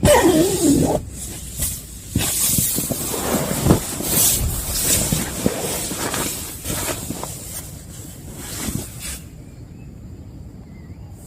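Heavy rain falling with gusting wind, an irregular patter and hiss with scattered heavier drops. About nine seconds in it cuts abruptly to a quieter, steadier rain hiss.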